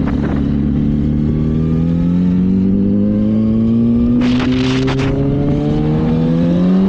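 Yamaha R1 sport bike's inline-four engine pulling in one gear, its pitch climbing slowly and steadily as the bike accelerates, over a constant rumble of wind and road. Brief rushes of noise about four to five seconds in.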